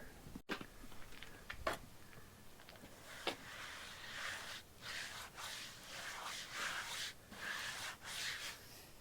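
Water being wiped over the face of a sawn pine burl slab to bring out the grain: a string of soft swishes, after a few light knocks early on.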